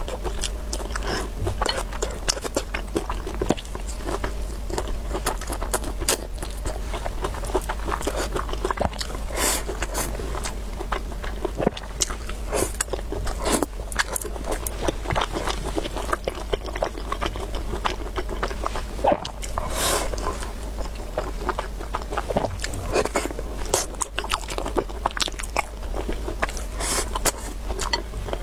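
Close-miked eating: dense, continuous biting and chewing with wet clicks and crunches, and now and then a utensil scraping a bowl. A steady low hum sits underneath.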